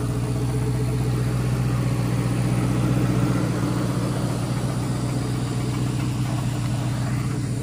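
Crown Victoria 4.6 L V8 idling steadily in an F100 on a Crown Vic chassis, with a rattle from the catalytic converters, which the owner says are clogged.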